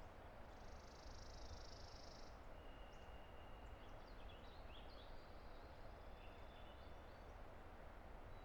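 Distant river rushing as a steady, faint hiss, with songbirds singing over it: a buzzy high trill about a second in, then thin whistled notes and chirps.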